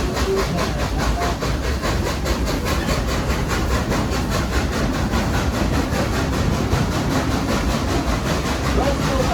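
Steam-hauled passenger train heard from aboard a coach behind a Baldwin 2-8-2 steam locomotive, running at low speed with a steady rhythmic beat about four times a second.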